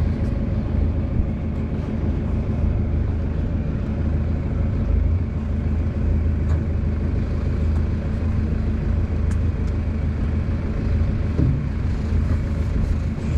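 A boat's engine running steadily: a constant low rumble with a steady hum, and a few faint clicks over it.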